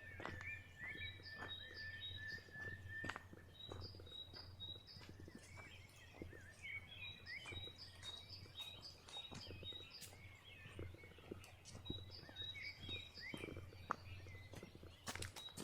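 Birds calling in woodland: strings of short, high, repeated chirps and pips with some sliding calls, over scattered light ticks and knocks.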